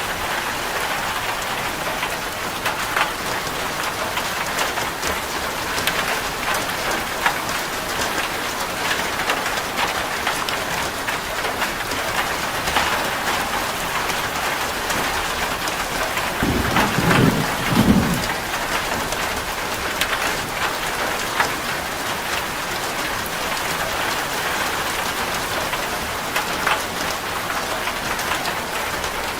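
Steady rain drumming on a corrugated zinc roof, many separate drops ticking on the metal. A little past halfway there is a brief low rumble of thunder.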